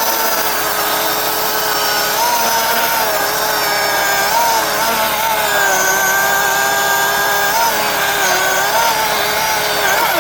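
Milwaukee cordless battery-powered chainsaw running at full speed and cutting wood: a steady electric-motor whine whose pitch dips slightly now and then under load.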